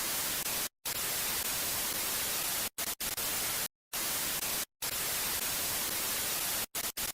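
Steady hiss of white-noise static, cutting out abruptly to dead silence for split seconds about seven times.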